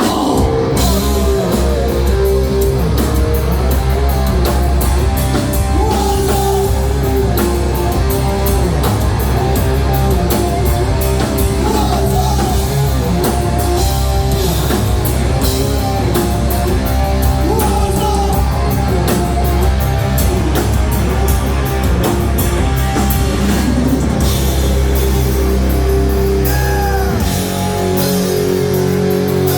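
Live heavy rock band playing loud: drum kit, electric guitar and bass, with singing. The low bass drops out briefly near the end.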